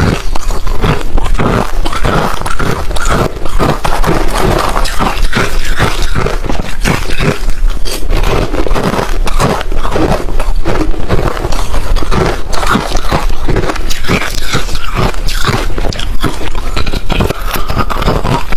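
Close-miked crunching and chewing of hard, refrozen crushed ice: a dense, irregular run of loud crunches with no let-up, over a steady low hum.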